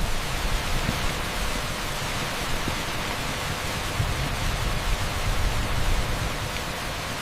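Torrential rain pouring onto an asphalt street: a steady, dense rush like pink noise, with a rumbling low end.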